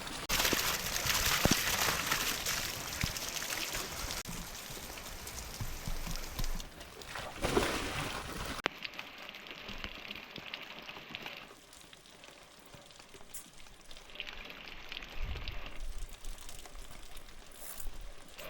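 Water pouring and trickling, loudest in the first half; about nine seconds in it drops sharply to a quieter, duller run of water.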